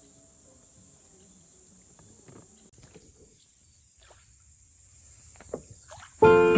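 Faint outdoor ambience with a steady high-pitched insect drone and a few small clicks and knocks, then acoustic guitar music starts suddenly near the end.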